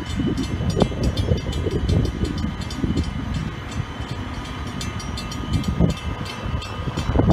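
Transperth electric suburban train moving past close by, a steady low rumble with a faint steady whine and scattered clicks, growing louder near the end.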